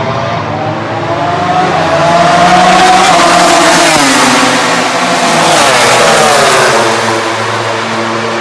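MotoGP race bikes' 1000 cc four-cylinder engines passing at high revs. The engine pitch climbs and then drops twice, a little past halfway and again near the end, as the bikes go by.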